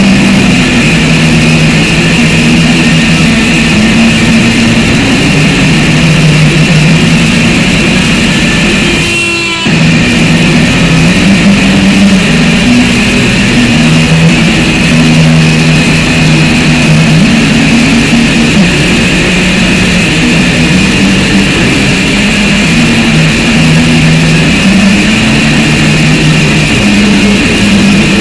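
Loud, harsh, distorted noise music: a dense cacophonous wash with low droning notes shifting in pitch. It briefly drops out with a quick sweep about nine and a half seconds in.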